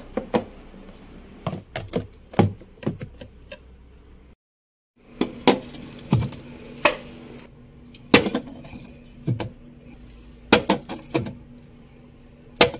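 Food containers and packages being set down on fridge and freezer shelves: scattered knocks and clinks of plastic and glass, a dozen or so short hits.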